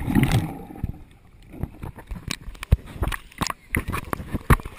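Water splashing and sloshing close to the microphone. A loud splash fades over the first second, followed by many sharp little knocks and clicks at an irregular pace.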